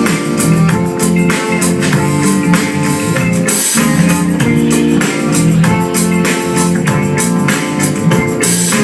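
Live band music: guitars and bass with drum kit and tambourine keeping a steady beat, played loud.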